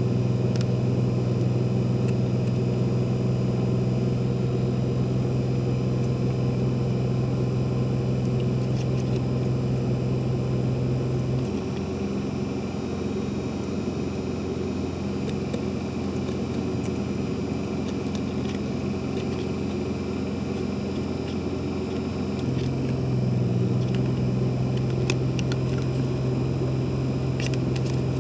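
A steady low mechanical hum, like a motor or engine running, that drops away for about eleven seconds midway and then comes back, leaving a softer rumble in between.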